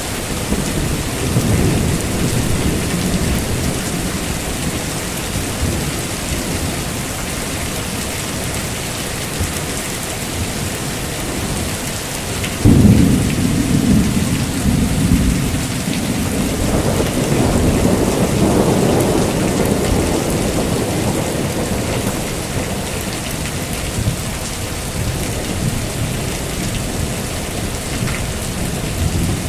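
Heavy steady rain with rolling thunder. About thirteen seconds in, a sudden loud clap of thunder breaks and rumbles on for several seconds, and a second rumble swells a few seconds later.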